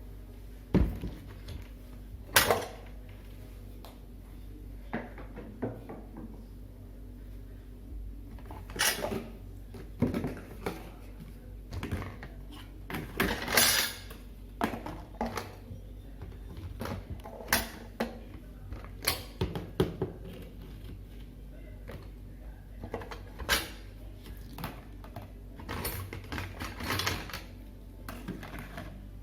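Irregular knocks, clinks and clicks of kitchenware being handled and set down while a kitchen is tidied, with a few louder knocks and a short rattle.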